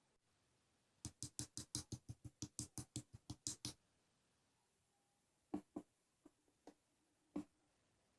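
A quick run of about fifteen sharp clicks, roughly five a second, then a few scattered single clicks near the end.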